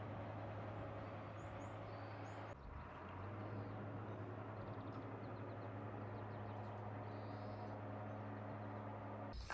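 Outdoor ambience: a steady low hum and hiss with a few faint, short bird chirps, the background dropping briefly about two and a half seconds in.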